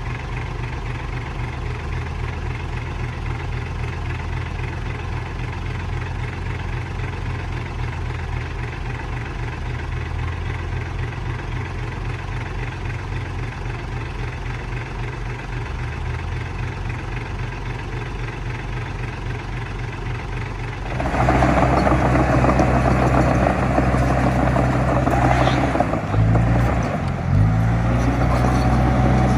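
Heavy diesel engine running steadily at a low hum, then suddenly much louder about two-thirds of the way through, as under load or revved, with the pitch moving near the end.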